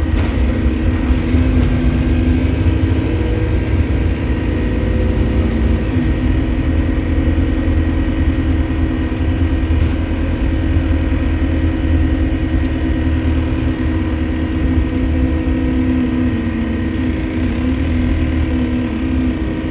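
Diesel bus engine running while the bus drives, heard from inside the passenger cabin: a steady drone with a constant whine, and a faint high whistle that rises and falls in the first few seconds. The noise is the one put down to a leaking turbocharger.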